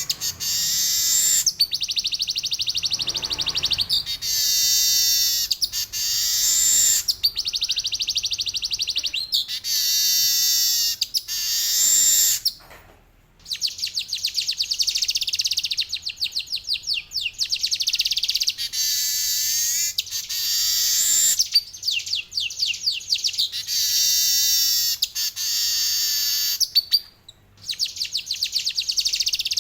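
Male weaver bird (manyar) singing its long rolling song: rapid, high-pitched buzzy trills and rattles in long phrases, broken twice by a brief silence.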